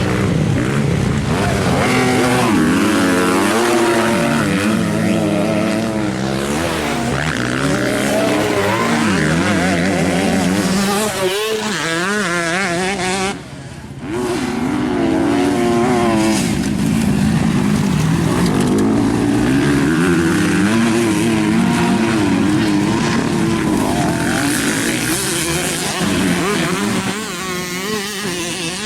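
Motocross bikes racing, engines revving up and down again and again as riders work the throttle. The sound drops briefly about halfway through.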